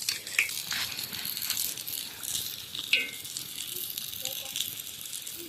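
Maandazi dough frying in hot oil: a steady sizzling hiss, with a few sharp clicks and knocks.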